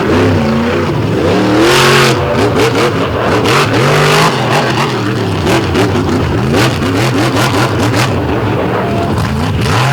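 Monster truck engine revving hard and unevenly, its pitch climbing and dropping many times in quick succession as the throttle is worked, with a few short sharp cracks among the revs.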